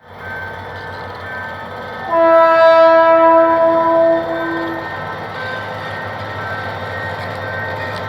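GM GT22CW-2 diesel-electric locomotive sounding one long horn blast about two seconds in as it pulls a passenger train away. The engine and train run steadily under and after the blast.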